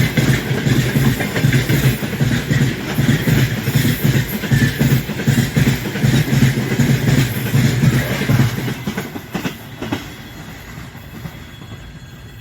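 Freight train wagons rolling past close by, their wheels clattering over the rail joints in a steady beat. About nine seconds in the end of the train goes by and the clatter drops away quickly to a faint fading rumble.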